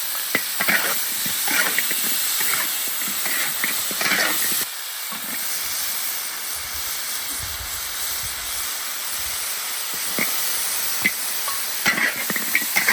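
Hot oil in a wok sizzling with a steady hiss and scattered crackles as dried chilies, ginger and garlic fry until fragrant.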